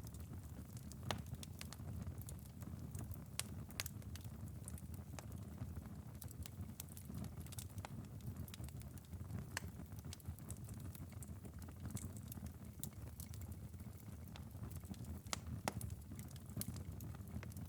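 Wood fire burned down to a glowing bed of embers, crackling with sharp, irregular pops and ticks over a low steady rumble.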